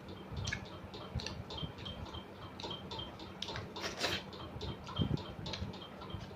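A person chewing food with the mouth open, making wet smacking clicks at about three a second, with a few louder smacks.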